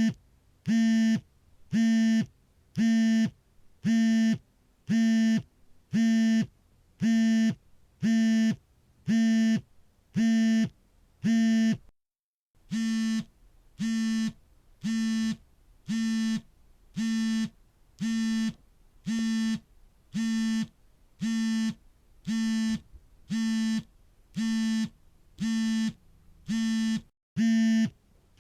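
A smartphone vibrating for an incoming call: the vibration motor buzzes in short pulses of about half a second, repeating about once a second, each with a steady low hum.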